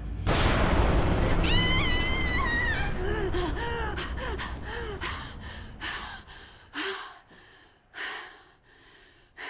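A person gasping with a sudden start, a wavering cry, then heavy breaths that come further apart and fade, over a low rumble at the start.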